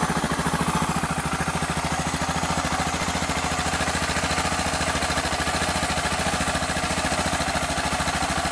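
2001 Suzuki DR650SE's single-cylinder four-stroke engine idling steadily through its stock exhaust, just after starting perfectly following a full tune-up.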